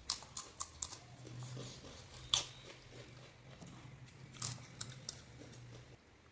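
Crisp panipuri shells crunching as they are bitten and chewed: a quick run of sharp crunches in the first second, the loudest about two and a half seconds in, and a few more around four and a half to five seconds, over a low steady hum that stops near the end.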